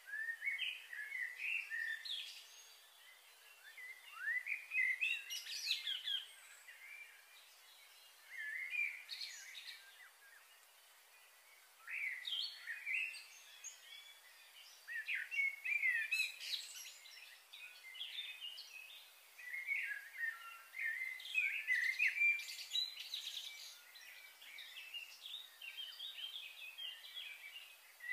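Songbirds chirping and singing in bursts of short rising and falling notes every few seconds, with quieter gaps between.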